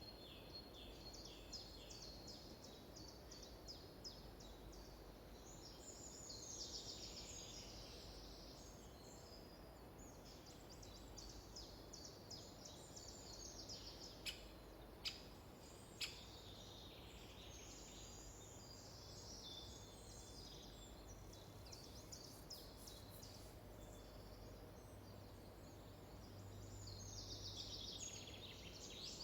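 Faint songbirds singing, quick repeated chirps and trills throughout over a low hiss of background noise, with three sharp clicks about halfway through.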